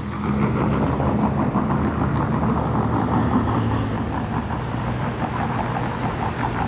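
Motor vehicle engine running with a steady low hum under road noise.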